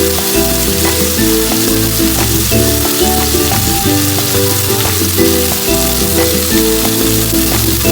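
Food sizzling as it fries in a pan, a steady hiss, under background music with a bass line and a melody.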